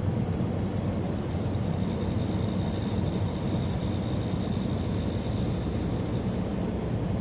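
Steady road and engine noise inside a truck cab cruising at highway speed: an even low rumble, with a faint high-pitched whine above it.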